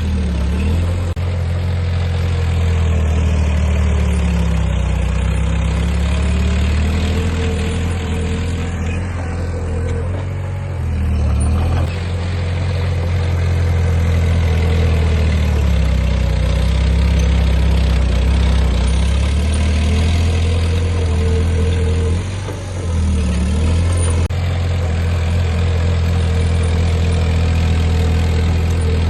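Heavy diesel engine of earthmoving equipment running steadily, its note falling and rising several times as the load changes, with two brief dips, one near the middle and one about three quarters of the way through.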